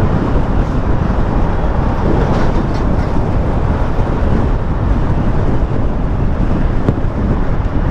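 Steady, loud wind and road noise on the rider's microphone while riding a Yamaha Aerox 155 scooter at highway speed.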